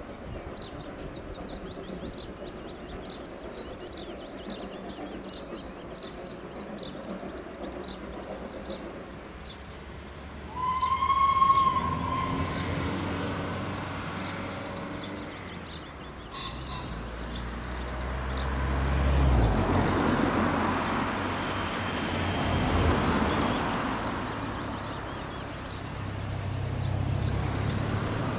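Birds chirping, then about ten seconds in a train sounds one high whistle note for about a second and a half. From about sixteen seconds a locomotive's deep engine drone builds, swelling and easing several times as the train works.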